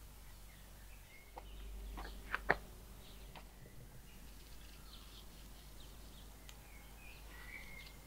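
Birds chirping in short high calls, mostly in the second half, with a few sharp clicks or knocks about two seconds in, two of them loud and close together.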